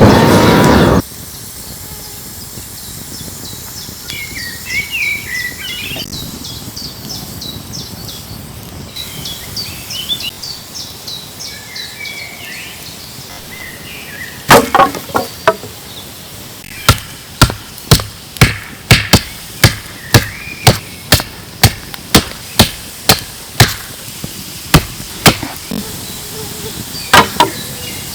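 Birds chirping, then a tool striking wood in a steady run of sharp knocks, about two a second, through the second half; the knocks are hammering or chopping. A brief loud rush of noise comes right at the start.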